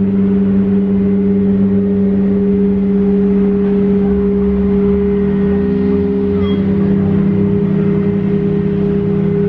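Singing bowls held in a sustained, steady humming drone, as from a mallet rubbed around the rim. A second, lower tone joins about two-thirds of the way through.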